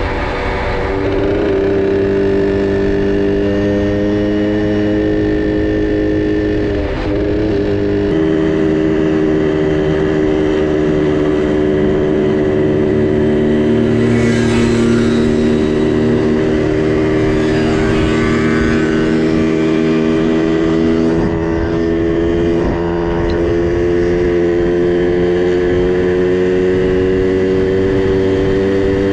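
Small two-stroke minibike engine running at a steady speed under way. Its pitch holds nearly level, stepping slightly a few times as the throttle changes.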